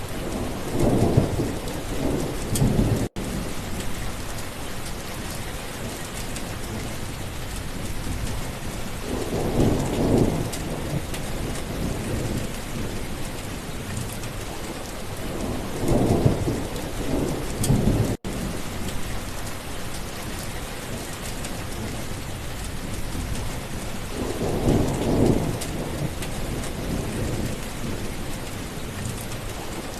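Steady rain with thunder rumbling four times, every six to eight seconds. The sound drops out for an instant twice.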